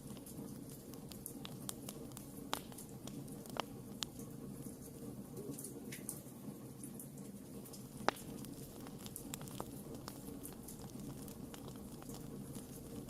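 Wood campfire crackling: irregular sharp pops and snaps over a steady low rumble, with one louder pop about eight seconds in.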